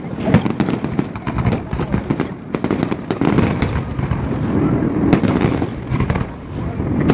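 Fireworks display: aerial shells bursting in quick succession, many sharp bangs and crackles over a steady low rumble.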